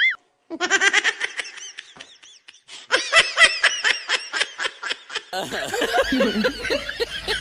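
Laughter in quick rising-and-falling bursts, breaking off briefly about two seconds in and picking up again. About five seconds in it gives way to more laughing over a low hum.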